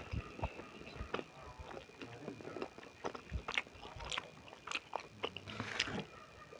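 A person chewing and biting into beef momos, with irregular mouth clicks and smacks.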